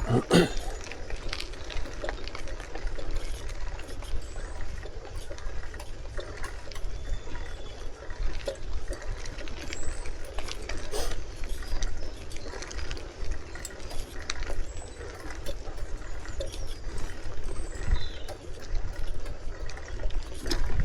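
Wind rumbling on the microphone of a moving bicycle, with tyre and road noise and frequent small clicks and rattles from the bike.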